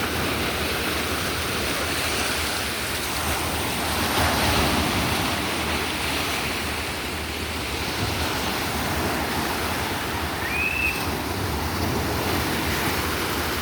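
Sea surf washing continuously onto the shore, swelling a little louder about four seconds in.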